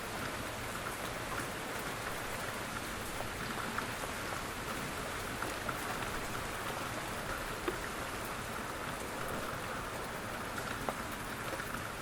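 Steady light rain falling, an even patter with scattered individual drops ticking on a surface.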